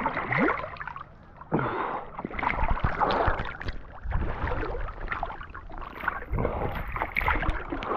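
Uneven splashing and gurgling of river water around a whitewater kayak balanced on its stern in a stern stall, with many small sharp splashes.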